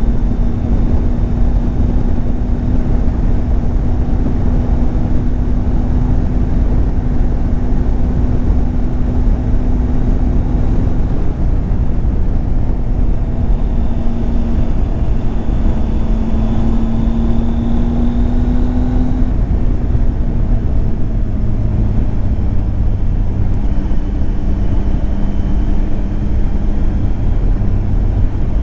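Triumph Tiger 800 XCX's inline-three engine running at a steady cruise, under a heavy rush of riding wind. Its note holds steady, climbs a little just past halfway, then settles lower toward the end.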